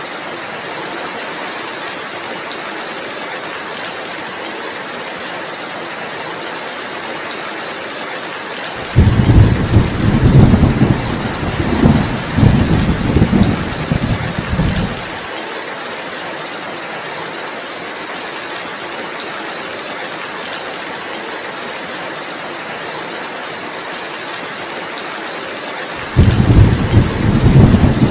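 Steady heavy rain hissing throughout. A loud, low thunder rumble starts suddenly about nine seconds in, lasts about six seconds and cuts off abruptly, and another rumble begins near the end.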